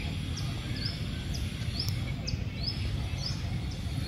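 A small bird chirping over and over, short high chirps two or three times a second, some sliding upward, over a steady low rumble.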